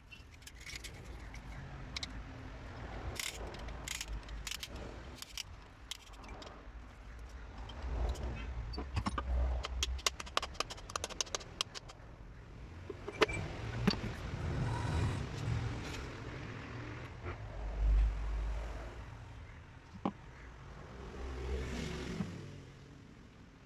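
Scattered metallic clicks, taps and knocks at irregular intervals, with a few low thuds now and then: hand tools and engine parts being handled during engine assembly.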